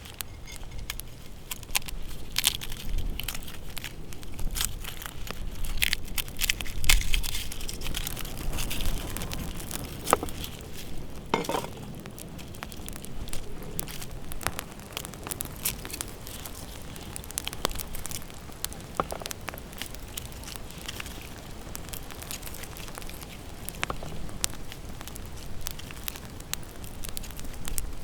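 Campfire crackling and popping, with a few louder crunching sounds about a third of the way in.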